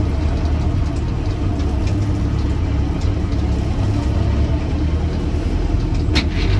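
1979 Land Rover Series 3 Lightweight's engine running steadily as the vehicle reverses, with a short sharp knock and clicks near the end.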